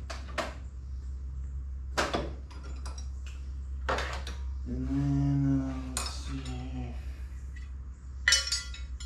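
A steel mower blade clanking and knocking against metal as it is handled, in about half a dozen separate sharp clanks, with a low steady hum underneath. About five seconds in, a short low droning tone is heard.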